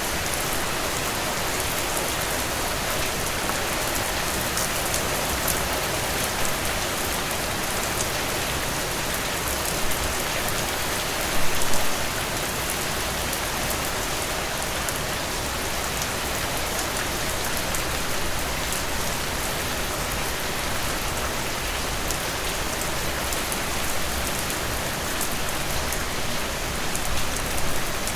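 Heavy rain falling in a steady, dense downpour, with a few sharper close drop hits standing out, the loudest a little before halfway.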